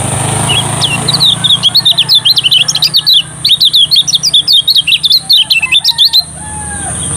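Lemon-bellied white-eye (kecial kuning) singing a fast, unbroken string of high chirps and twitters for about five seconds, stopping abruptly about six seconds in, over a steady high hiss.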